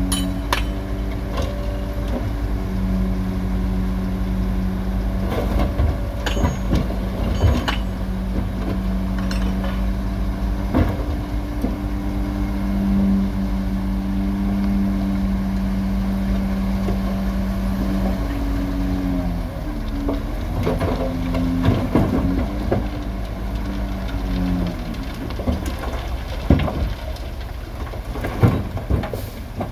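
Diesel engine of heavy earthmoving machinery running steadily under load, with scattered knocks and clanks. Its pitch dips and shifts about two-thirds of the way through.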